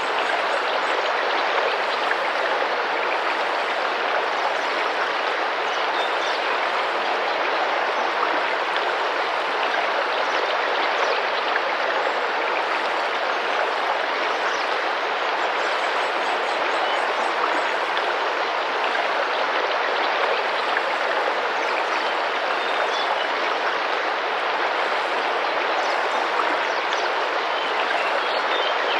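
Tropical rainforest river flowing and splashing steadily, with faint high bird chirps now and then.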